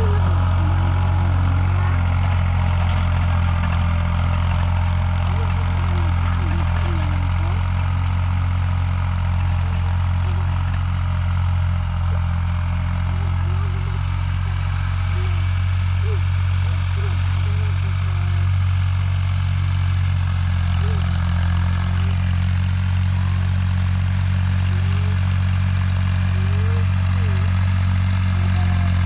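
Heavy diesel engine running steadily at an even speed, a constant low drum with no revving.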